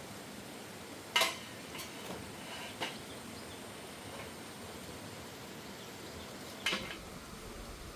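Three short, sharp knocks over a steady low hiss: one about a second in, a fainter one near three seconds, and another near seven seconds.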